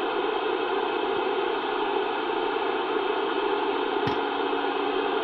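CB radio static: a steady hiss from the receiver's speaker between transmissions, with one faint click about four seconds in.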